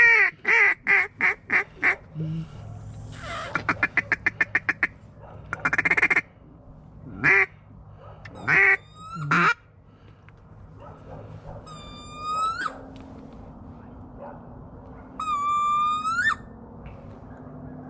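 Hand-blown duck calls working a single duck: a run of about six loud quacks, then a fast chatter of a dozen short notes, then a few single quacks. Later come two long whistled notes, each rising at its end.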